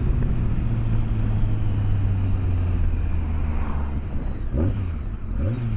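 BMW K1200S motorcycle's inline-four engine running steadily under way, heard from inside the rider's helmet over wind and road noise; near the end the engine note dips and rises a few times.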